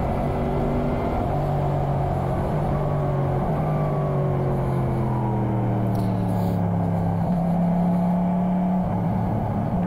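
Motorcycle engine running on the move, with wind noise over it. The revs fall steadily for a few seconds as the bike slows, then step up sharply about seven seconds in as it shifts down, and change again near the end.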